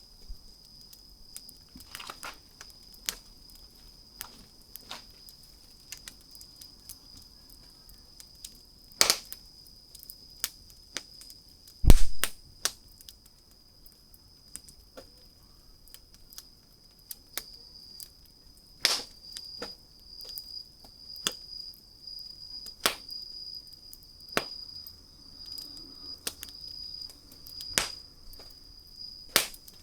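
Wood campfire crackling, with sharp irregular snaps and pops; a dull low thump about twelve seconds in is the loudest sound. A thin steady high-pitched tone runs underneath, turning pulsing in the second half.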